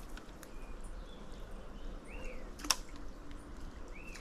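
A bird calling, short rising-and-falling notes about every two seconds, over a steady low background hiss. A single sharp click a little past the middle is the loudest sound.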